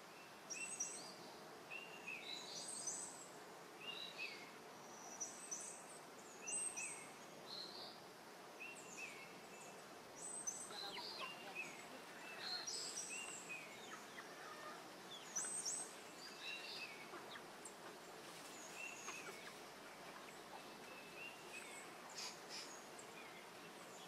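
Faint outdoor ambience of birds chirping: short high chirps repeat every second or so over a steady hiss.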